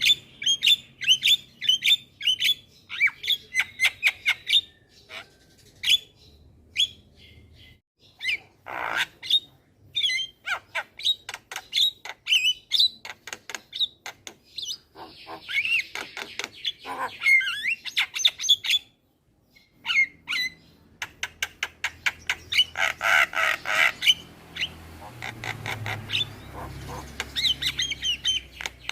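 Javan myna chattering: fast runs of sharp clicks, harsh squawks and short whistled notes, with a brief break about two-thirds of the way through.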